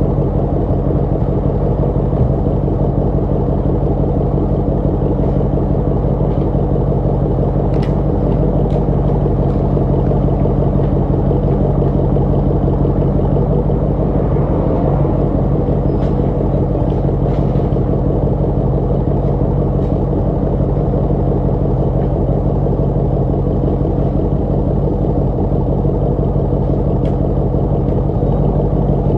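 Car engine idling, a steady low hum that holds even throughout, with a few faint clicks.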